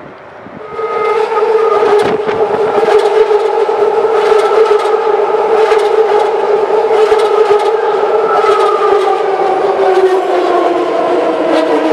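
BART Fleet of the Future electric train passing close by on the elevated track. It comes in loudly a little under a second in with a steady high whine made of several pitched tones, mixed with rumble and irregular wheel clacks. The whine sinks slightly in pitch near the end.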